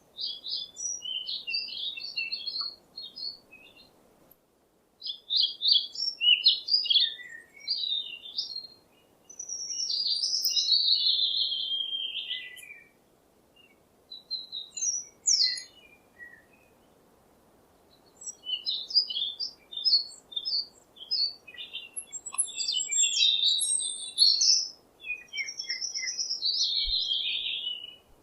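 A songbird singing in phrases of quick high chirps and warbles, each a few seconds long, with short pauses between them. One longer falling warble comes about ten seconds in.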